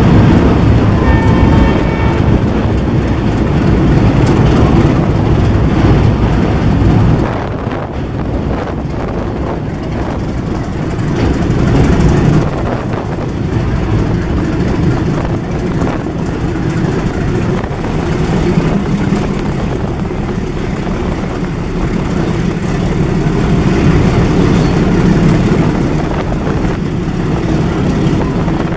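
Diesel trains running side by side at speed: steady engine drone and wheel-on-rail rumble, with a short horn note about a second in.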